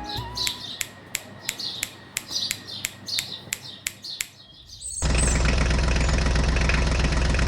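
Birds chirping in a quick, regular series of short chirps. About five seconds in, a loud, steady engine sound cuts in abruptly.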